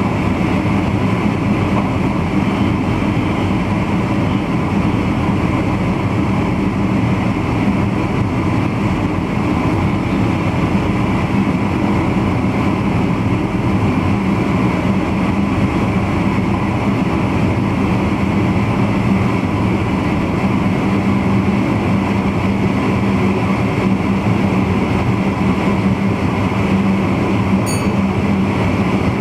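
VIRM double-deck electric intercity train running at speed, heard from inside the driver's cab: a steady drone of wheels on rails with a constant low hum.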